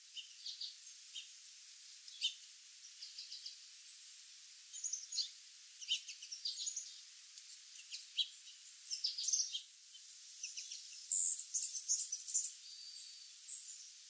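Wild birds chirping and calling in many short, high notes over a steady faint hiss, with the loudest burst of calls about eleven seconds in.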